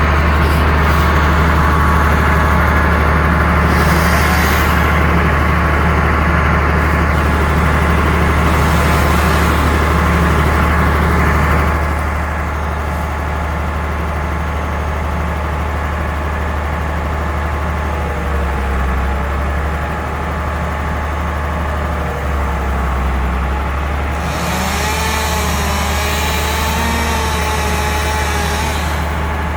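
Bucket truck's engine running steadily, a low drone that is louder for about the first twelve seconds and then settles lower. A few short rushing noises come over it, near four and nine seconds in and again for several seconds near the end.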